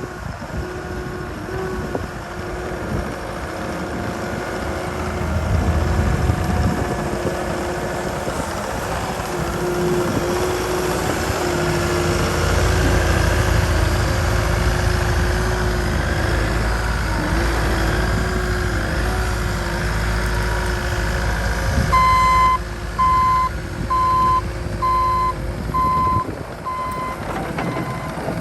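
Bobcat T770 compact track loader's diesel engine running, louder as it picks up speed about five seconds in and again from about ten seconds. About 22 seconds in its reversing alarm starts beeping, roughly once a second, as the machine backs up.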